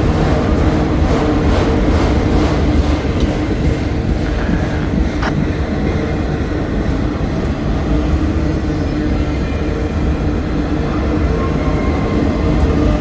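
Freight train cars rolling slowly past with a steady low rumble and hum, wheels clicking over rail joints at an even rhythm in the first few seconds, and one sharp metallic clank about five seconds in.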